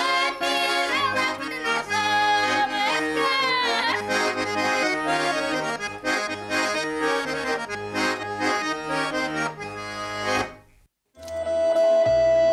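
Garmon (Russian button accordion) music, many notes played together in a lively tune. About ten seconds in it stops, and after a brief gap a different piece starts with long held notes.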